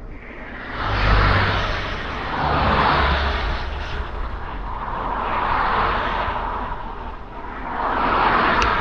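Road traffic passing close by: four vehicles go by in turn, each a rising and falling rush of tyre and engine noise.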